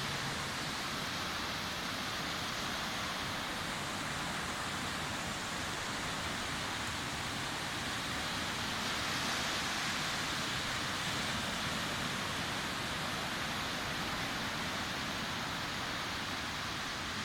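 Sea waves breaking and washing on a beach: a steady rushing noise without distinct individual crashes, swelling a little about nine seconds in.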